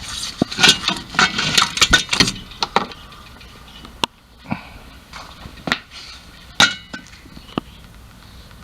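Sharp metallic clinks and knocks of hand tools and metal parts being handled, a quick cluster in the first couple of seconds, then single clicks about once a second.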